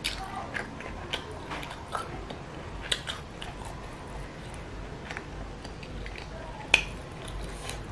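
A person chewing spicy noodles: wet mouth sounds and smacks, with scattered short clicks. The loudest click comes about three-quarters of the way through.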